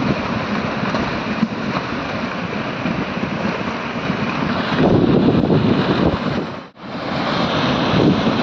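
A debris flood of water, mud and stones rushing down a mountain stream channel: a loud, steady rushing noise that swells in surges, with a sudden brief cut-out about two-thirds of the way through.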